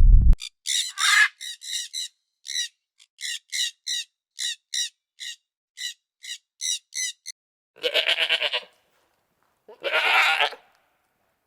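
A bird's short, sharp calls repeated about twice a second for several seconds, then two wavering bleats from a goat or sheep, about a second apart near the end.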